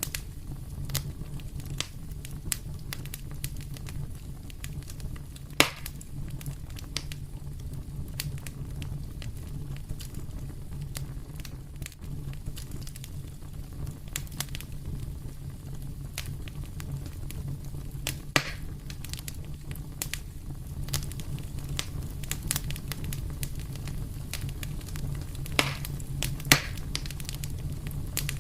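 Wood fire crackling in a fireplace: constant small snaps over a steady low rumble, with a few louder pops, one about six seconds in, one past the middle and two near the end.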